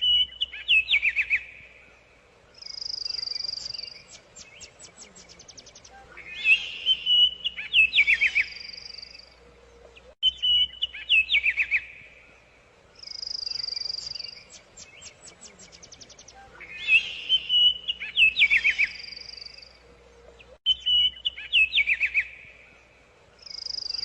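Songbird calling: bursts of quick chirps alternating with a long, high, steady whistle that ends in a fast trill. The same song sequence repeats identically about every ten seconds, as in a looped recording.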